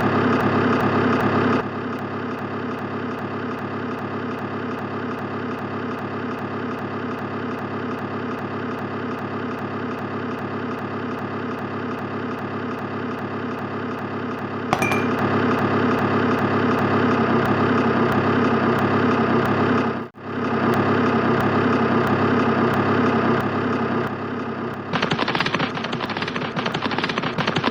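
A motor running steadily with an even, engine-like drone, shifting in level a few times and dropping out briefly about two-thirds of the way through.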